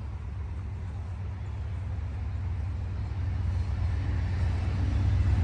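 Mercedes-AMG GLE 53's turbocharged inline-six idling: a steady low hum that grows gradually louder.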